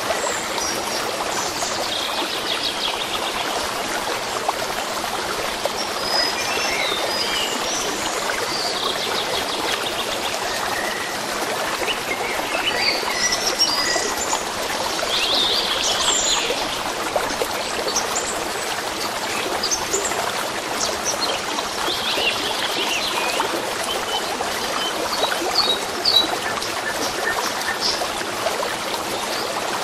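A steady stream of running water, with small birds chirping and calling over it throughout.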